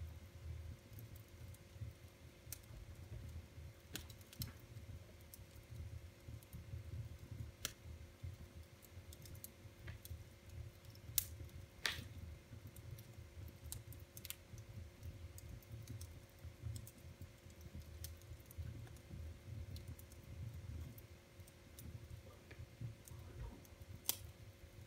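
Wood fire burning in a fireplace, crackling with irregular sharp pops over a low rumble of flame. The loudest pops come about 11 and 12 seconds in.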